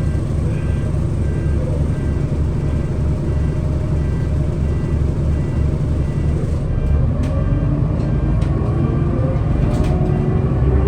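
Scania L94UB city bus's engine running with a steady low throb, then pulling away about two-thirds in, its engine and drivetrain whine rising in pitch as the bus gathers speed. A few sharp clicks or rattles come as it sets off.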